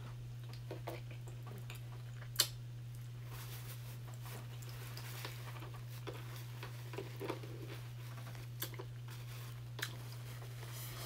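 Close-miked chewing of a chili cheese dog with the mouth closed: soft, wet smacks and clicks scattered through, with one sharper click about two and a half seconds in, over a steady low hum.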